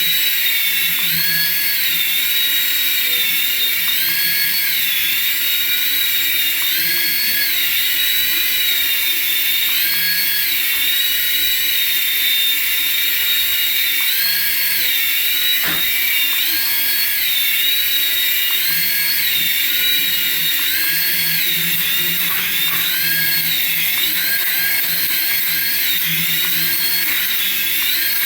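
High-pitched whine from a remote-control toy, steady in level, rising in pitch briefly and dropping back about every two seconds.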